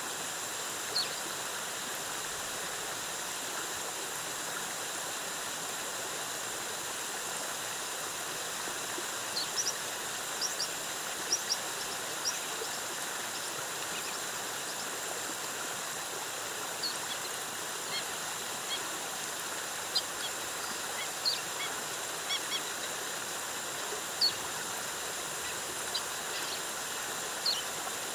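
Steady rushing of a jungle waterfall, with short, high bird chirps scattered over it: a quick run of them about ten seconds in and more spread through the second half.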